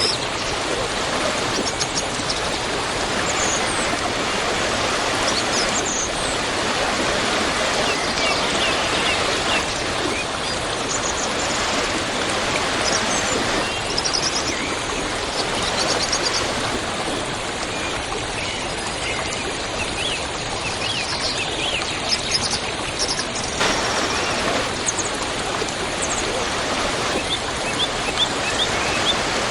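Waterfall pouring steadily, a constant rush of falling water, with small birds chirping briefly now and then over it.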